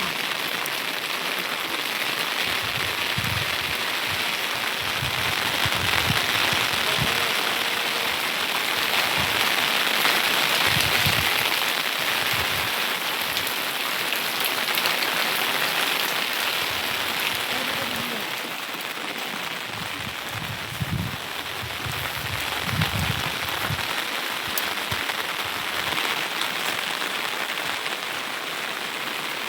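Steady rain falling, an even hiss of drops that carries on throughout.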